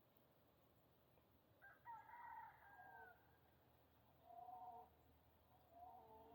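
A rooster crowing faintly: one long crow about two seconds in that falls away at the end, then two shorter calls.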